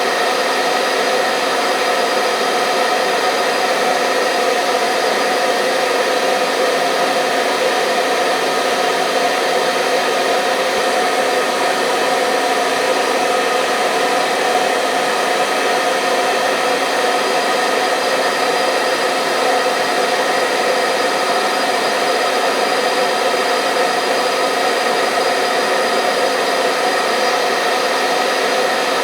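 Hair dryer running steadily: an even blowing rush with a constant motor whine over it.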